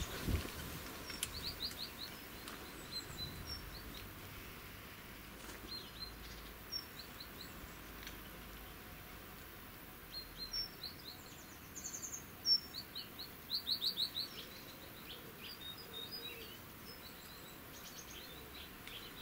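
Small birds chirping in short, high calls scattered throughout, with quick runs of twittering about a second in and again a little past the middle.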